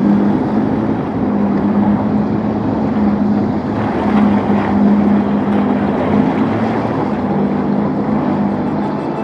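Motorboat engine running at a steady, constant pitch, with wind and water noise rushing over the microphone.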